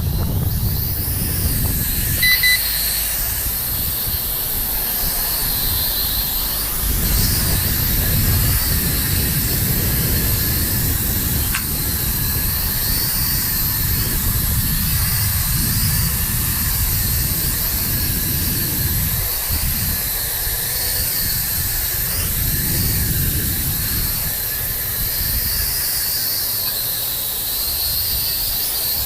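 JJRC H33 micro quadcopter's small brushed motors and propellers whining at a high pitch that wavers up and down as it flies, with wind rumbling on the microphone. A short electronic beep about two seconds in.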